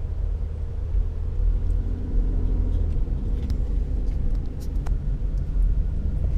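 2011 Ford Flex's front end rolling at low speed: steady low road rumble with a faint, steady dull whine over it. The owner calls it a dull high-pitched noise from the front, and it remains with both hubs and wheel bearings replaced and new tires, so the cause is still unknown.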